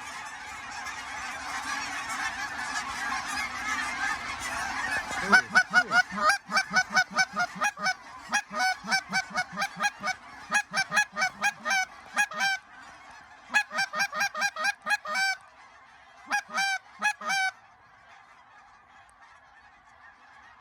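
A big flock of geese honking together as one dense clamour. From about five seconds in come loud, quick, evenly spaced goose honks close by, about three a second, in several runs separated by short pauses, until they stop near the end.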